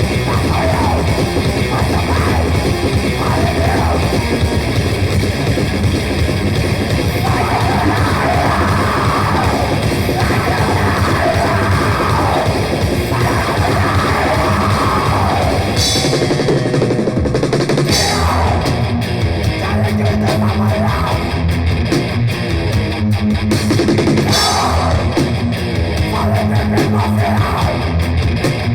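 Raw grindcore music: heavily distorted guitars and bass over fast, dense drums. The texture changes about halfway through.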